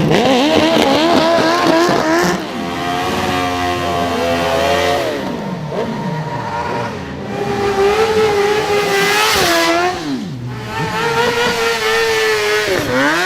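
Superbike engine held at high revs during a rolling burnout, its pitch wavering and then dropping several times as the throttle is eased and reopened, over the hiss of the spinning rear tyre.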